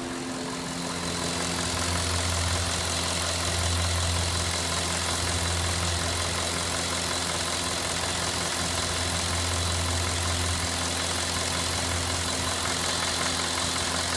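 Cadillac Northstar 4.6-litre DOHC V8 idling steadily while hot, a low even hum under a dense hiss, getting a little louder about two seconds in. This is the hot condition in which its intermittent clicking noise occurs.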